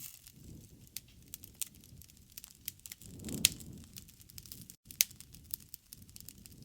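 Wood campfire crackling: many sharp pops and snaps, the loudest about three and a half seconds in and another at about five seconds, over a low rumble that swells in the middle.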